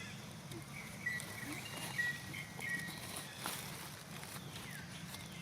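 Baby long-tailed macaque giving several short, thin, high squeaks in the first half, with a few light knocks over a steady low background hum.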